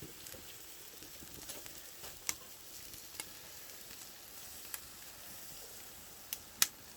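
Marinated pork belly sizzling on a grill over an oak wood fire in a brazier: a steady hiss broken by a few sharp pops, the loudest one near the end.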